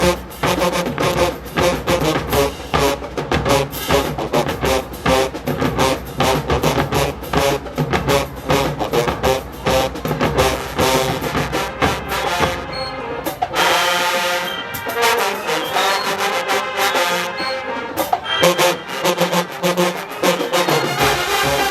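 Marching band playing with full brass and drumline, heavy steady drum beats under the horns. About two-thirds of the way in, the drums drop out and the brass carries on alone with rising held chords. Some drum hits return near the end.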